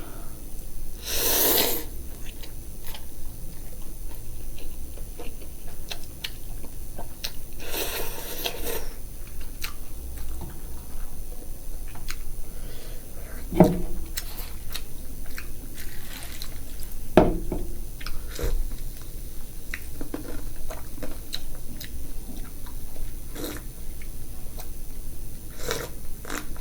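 A person eating ramen noodles, with close-up chewing and slurping. Small clicks and a couple of sharper knocks come through, including two about 13 and 17 seconds in.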